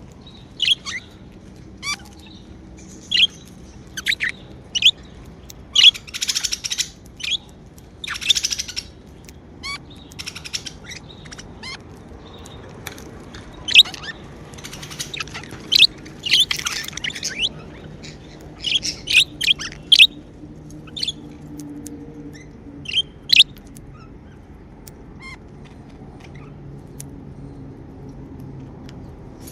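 Pet budgerigars chirping: short, sharp high calls at irregular intervals, with a few longer stretches of scratchy chattering warble.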